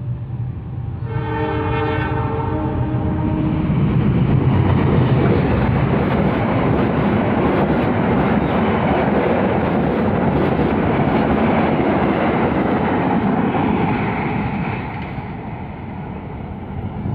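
Argo Cheribon passenger train sounding a multi-tone horn for about two seconds, then rushing past with the rumble and clatter of its wheels on the rails, loudest in the middle and dying away near the end.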